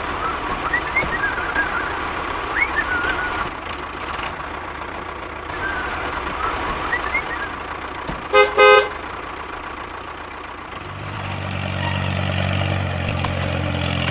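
A vehicle horn gives two short toots about eight seconds in, over a steady hiss with faint high chirps. About three seconds later a low engine drone starts up and runs steadily to the end.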